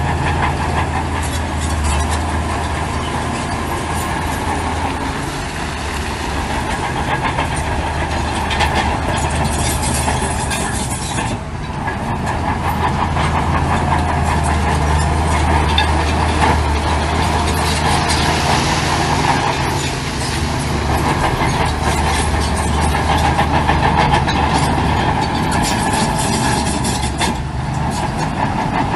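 Heavy diesel earthmoving machinery running steadily: a bulldozer's engine drones under load with the clatter of its steel tracks, with a brief dip in level about eleven seconds in.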